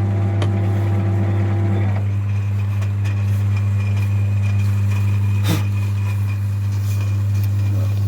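Metal lathe running with a steady low hum while boring out a 1.9 TDI piston's combustion bowl. A higher tone drops out about two seconds in, and there is a single click about five and a half seconds in.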